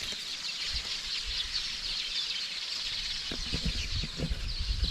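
A dense chorus of many small birds chirping and calling at once, a mix of species, with a low rumble underneath that grows stronger in the second half.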